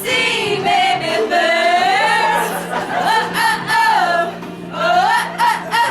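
A group of voices singing held, wavering notes over steady backing music.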